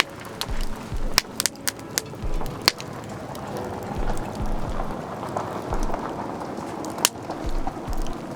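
Wood campfire burning, crackling with irregular sharp pops and snaps over a steady hiss.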